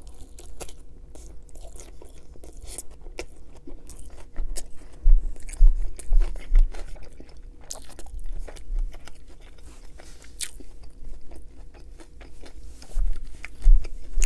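Close-up mouth sounds of someone biting into and chewing a crunchy tempura-fried sushi roll: a steady run of small crisp crunches. A few loud, dull low thumps come from the chewing around the middle and again near the end.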